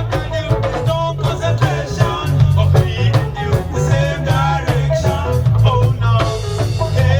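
A lovers rock reggae band playing: a steady bass line and drum kit with guitar, under a male lead vocal singing throughout.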